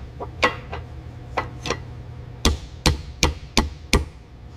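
Sharp knocks of parts being worked into place during engine assembly: a few scattered hits, then five quick, even ones about a third of a second apart near the end, over a steady low hum.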